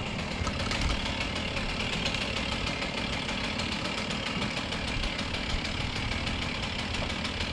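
A small engine running steadily at idle, with an even, rapid knocking pulse.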